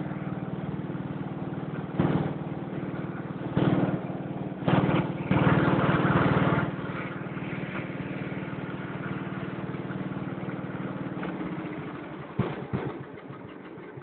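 Briggs & Stratton 8 horsepower single-cylinder engine of a garden tractor running steadily, revved up briefly several times in the first half. From about three-quarters of the way in it slows and quietens, with a few knocks, as it winds down.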